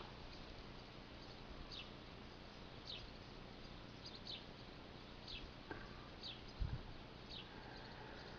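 Faint bird chirps: short falling notes, repeated about once a second, over quiet open-air background. A brief low thump about two-thirds through.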